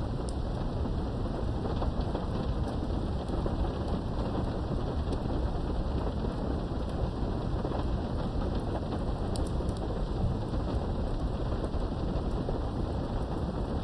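Steady heavy rain with a continuous low thunder rumble beneath it and scattered sharp raindrop ticks.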